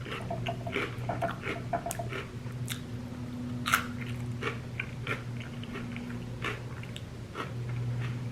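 Close-miked chewing of crunchy chips smothered in queso and sour cream: many irregular sharp crunches mixed with wet, squishy mouth sounds.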